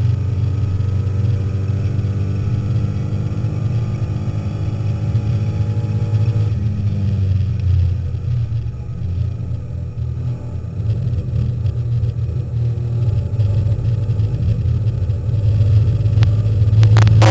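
Alpine A310 race car's engine heard from inside the cockpit, running at steady high revs along a straight. It drops off in level around eight seconds in as the throttle is eased, and builds again near the end.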